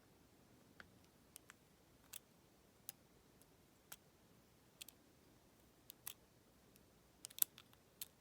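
Faint, irregular clicks and ticks of a lock pick working the pin stack in the keyway of a Federal PL90PE 38 mm lockout padlock, with a quick cluster of sharper clicks near the end.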